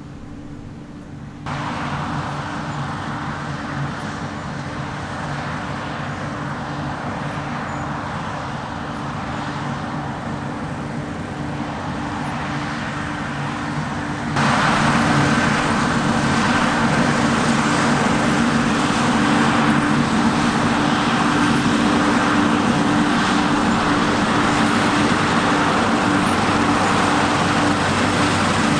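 Heavy diesel harvest machinery running steadily with a deep engine hum. It jumps abruptly louder about a second and a half in and again about halfway through.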